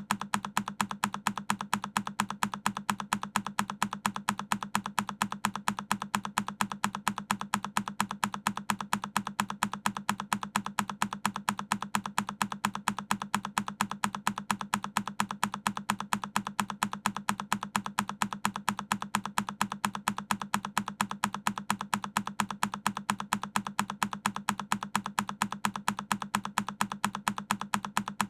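A single key on a Keychron K10 mechanical keyboard pressed over and over, each press a sharp click, repeating at a fast, even rate.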